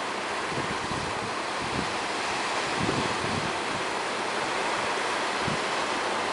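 Ocean surf and strong wind, a steady rushing with wind buffeting the microphone in low rumbles.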